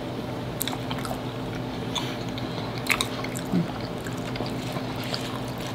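Close-miked chewing and squishing of a soft, cheesy pasta and ground-beef casserole, with a few light clicks that fit forks on a plate. A steady low hum lies underneath.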